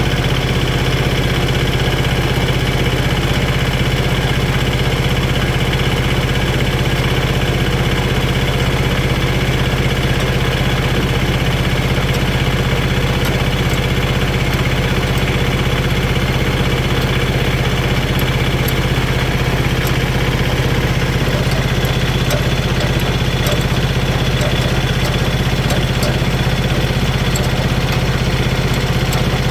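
An engine running steadily at a constant idle, with a strong low hum that never changes speed. Faint light clicks come through in the second half.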